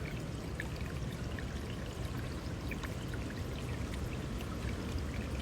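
Water flowing and trickling steadily, with many small drips and splashes.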